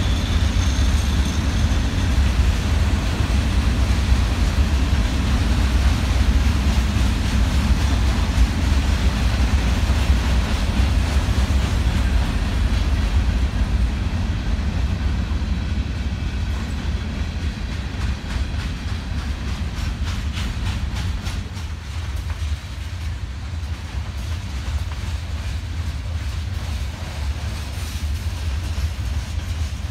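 Freight train of covered hopper and tank cars rolling past with a steady low rumble, the wheels clicking over rail joints in the second half as the sound eases slightly.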